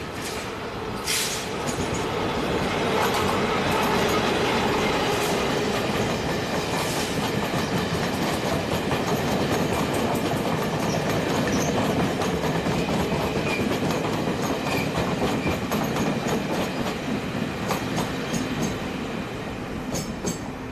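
Train running along the platform, a sustained rumble with the wheels clicking rhythmically over rail joints. It builds over the first couple of seconds and holds until near the end.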